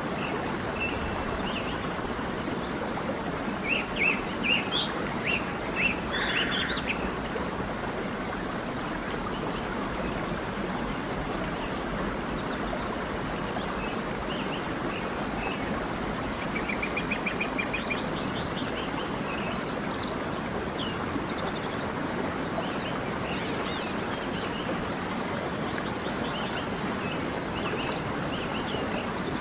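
A stream running steadily, with birds calling over it: a burst of chirps a few seconds in, a fast trill past the middle, and scattered calls after.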